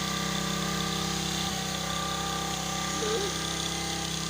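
An engine runs steadily with an even, unchanging hum. A brief faint warble sounds about three seconds in.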